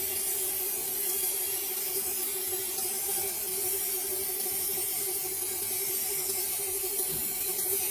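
A steady hiss with a low, steady hum beneath it.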